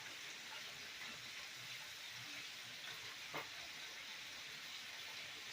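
Chicken breasts deep-frying in hot grease: a steady sizzle with small crackles and one sharper pop about three and a half seconds in.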